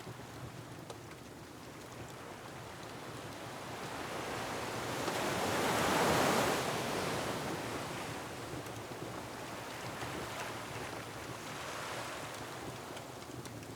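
Ocean waves surging against a rocky shore: one wave builds to a loud peak about six seconds in and washes away, and a smaller swell follows near the end. Faint crackling of a wood fire ticks underneath.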